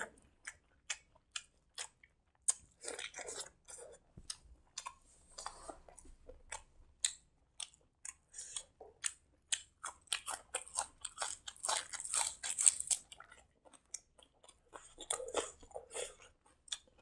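Close-miked mukbang chewing: irregular wet smacks and clicks of a mouth eating rice and curry, with some crunching, busiest about ten to thirteen seconds in.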